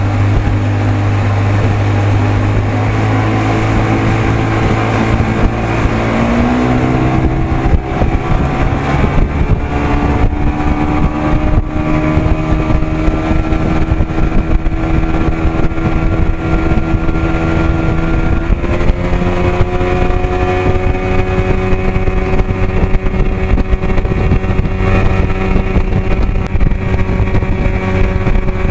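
55 hp Evinrude outboard motor running a boat under way. About six seconds in it is throttled up and its pitch climbs, then it rises a little further, with another step up about two-thirds of the way through.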